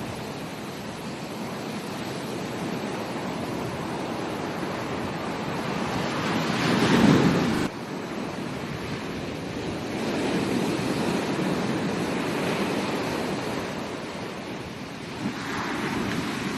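Ocean surf breaking and washing up a beach in rolling swells. One wave builds to its loudest about seven seconds in and then cuts off sharply, and further swells follow.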